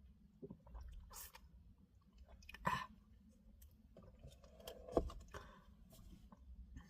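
Faint handling noises: scattered light clicks and short rustles, with two louder knocks, one near the middle and one about five seconds in.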